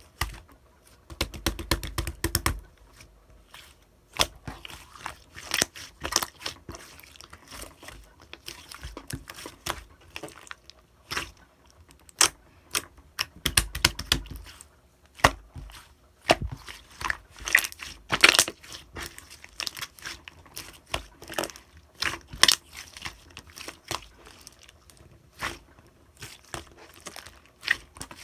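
Slime being squeezed, stretched and poked by hand, giving irregular sticky clicks and crackles. Two deeper squishes come about a second in and about halfway through.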